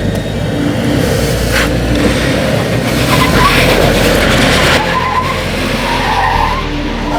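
Toyota 4Runner on 33-inch tyres working its engine under load as it crawls over a rocky obstacle on the trail, with the engine note and tyre noise rising and falling.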